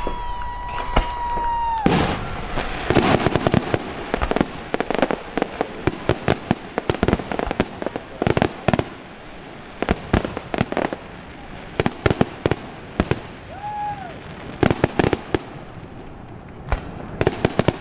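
Aerial fireworks display: a steady high whistle cuts off about two seconds in, followed by many sharp bangs and crackles from bursting shells, with a second brief whistle late on.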